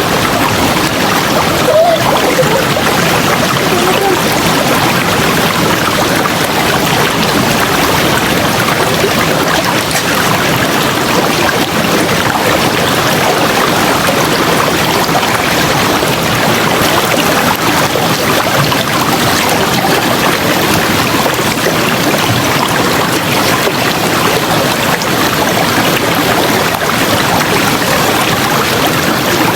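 River water rushing over rocks in a steady, loud, even flow, with a brief louder surge just under two seconds in.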